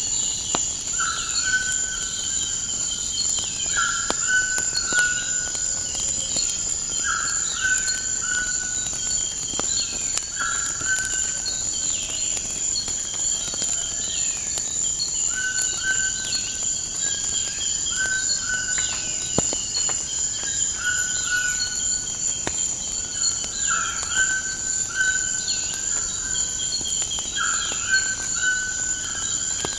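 Crickets trilling in a steady high-pitched drone, with a bird repeating short calls in groups of two or three and other falling chirps. Faint scattered crackles of a wood fire run underneath.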